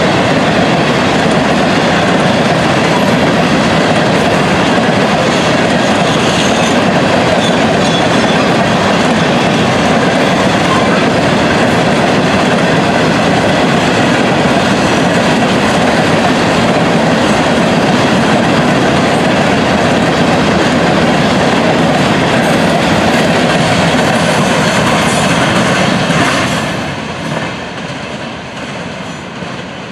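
Freight train cars rolling past on the track, a loud steady clatter of wheels on rail. A little before the end the noise falls off quickly.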